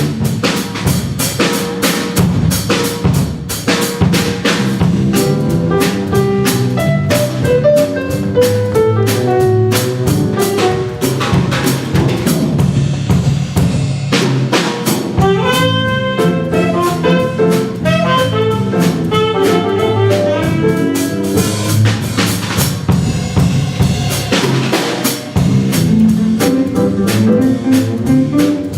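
A small jazz ensemble playing swing, with a busy drum-kit part: snare and rimshot accents, bass drum and cymbals over walking bass and melody instruments.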